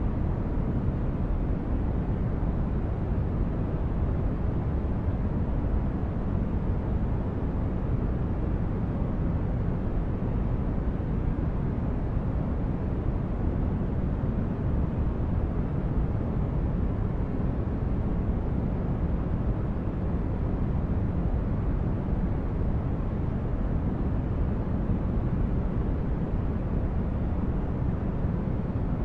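Steady white noise with a deep, rumbling character, loudest in the low range and fading toward the highs, holding even with no change.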